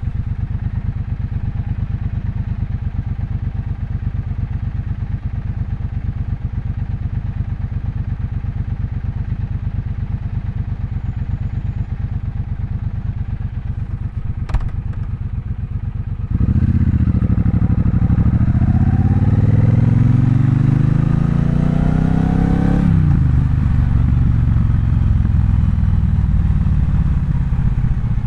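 Triumph Bonneville Bobber's 1200 cc parallel-twin engine running steadily at low revs for about sixteen seconds, with one sharp click, then opening up as the bike pulls away: the revs climb for several seconds, drop at a gear change, and the engine settles into steady running.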